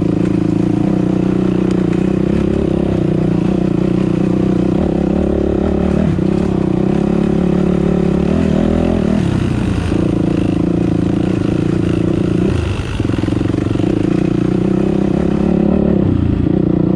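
Dirt bike engine running steadily under load on a trail climb, with its pitch shifting briefly a few times as the throttle changes.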